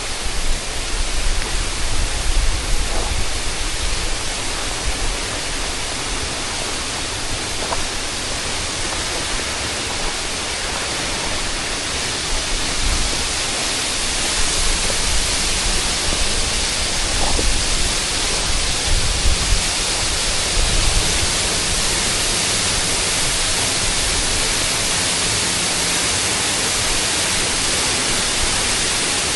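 Steady, even rushing noise with no pitch. Uneven low rumbles come in the first few seconds and again around the middle, then it settles to a constant hiss.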